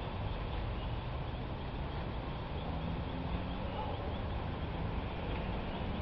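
Steady rushing noise of a storm, wind and rain, with a faint low tone in the middle.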